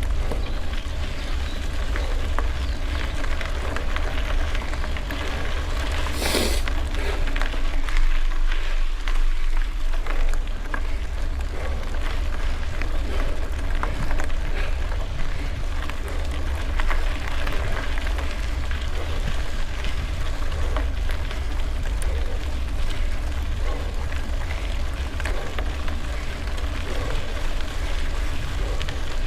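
Wind rumbling on the microphone over a dense crackle of bicycle tyres rolling on gravel, with one sharp knock about six seconds in.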